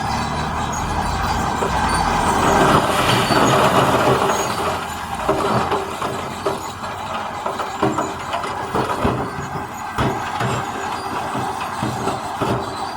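Diesel engine of heavy earthmoving machinery working under load, louder for a few seconds about two seconds in, then settling while irregular metallic clanks and knocks come through.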